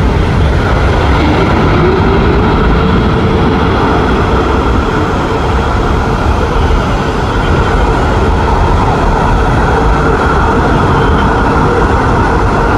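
Boeing 777-9's GE9X jet engines, a loud steady noise with a tone that rises about a second and a half in and then holds.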